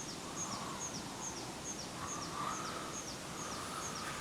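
A bird repeating a short, high, downward-sliding chirp at an even pace of about two a second, over a steady outdoor hiss.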